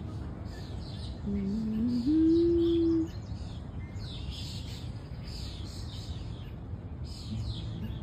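Small birds chirping over and over in short falling calls, over a steady low rumble of outdoor ambience. About a second in, a louder low tone rises in steps and holds for about a second before stopping.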